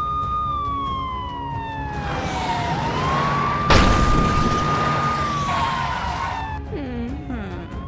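Wailing emergency-vehicle siren, holding a high note, gliding slowly down, rising back and gliding down again. A rush of noise swells in the middle, with one sharp bang about four seconds in.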